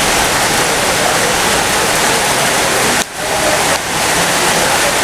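Heavy rain falling, a loud steady hiss that drops off sharply about three seconds in and comes back within a second.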